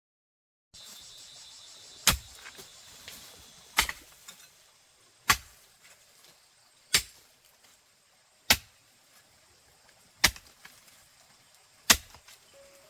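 A hoe chopping into earth, seven sharp strokes about one every one and a half seconds, over a faint high hiss of insects in the first few seconds.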